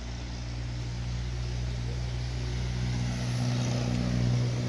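A car engine running steadily with a low, even hum, growing a little louder near the end.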